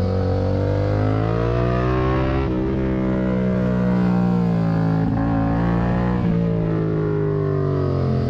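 Yamaha MT-07's parallel-twin engine through a Mivv aftermarket exhaust, heard from the rider's position under way, its note rising and falling with the throttle. There are brief breaks in the note about two and a half and six seconds in.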